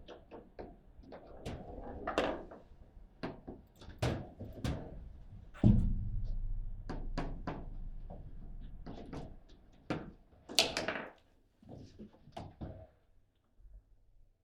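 Table football play: the ball being struck by the rod-mounted players and bouncing off the table, an irregular run of sharp knocks and clacks. One heavy thunk about five and a half seconds in stands out as the loudest hit.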